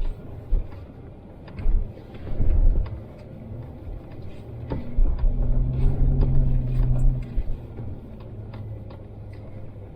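Off-road 4x4 driving a rutted, snow-covered trail, heard from the cabin: a low engine rumble with a few knocks from bumps in the first few seconds. The engine grows louder for about two seconds past the middle, then eases back.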